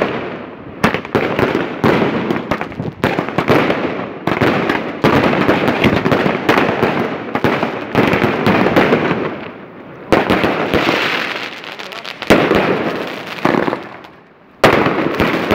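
Fireworks going off in quick succession, with sharp bangs and crackling one after another. Near the end there is a brief lull, then one loud bang.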